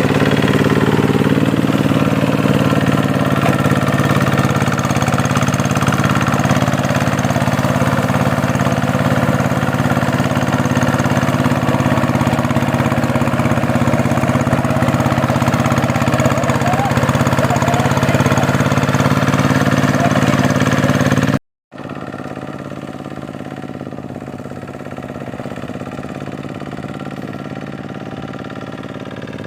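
Two-wheel tractor engine running steadily, with an even hum of low harmonics. About three-quarters of the way through it breaks off for an instant and continues more quietly.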